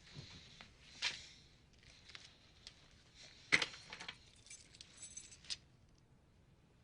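Scattered light clicks and clinks of small hard objects being handled, the loudest about three and a half seconds in.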